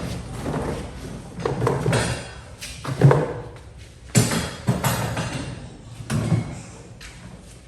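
A series of irregular knocks, thuds and scrapes, the sharpest about three seconds in and another just after four seconds.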